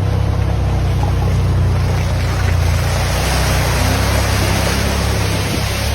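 A vehicle's engine running steadily while driving, under a constant rushing noise.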